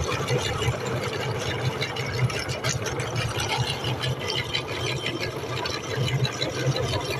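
Electric meat grinder running steadily, its motor humming as it grinds tomatoes, with small irregular crackles over the hum.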